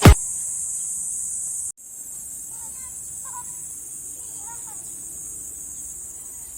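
Steady high-pitched insect chorus, typical of crickets or cicadas, with faint distant voices. It drops out for an instant about two seconds in.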